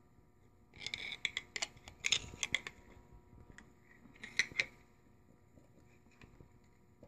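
Metal parts of a GM 10-bolt rear end clicking and clanking in three short bursts, the carrier and gears knocking through the play left by badly worn carrier bearings and excess gear backlash.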